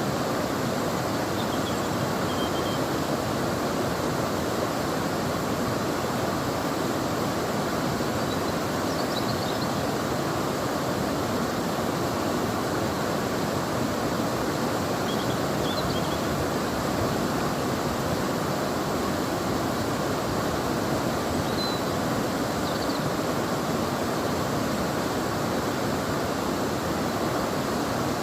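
River water flowing in a steady, unbroken rush. A few faint, brief high chirps come through now and then.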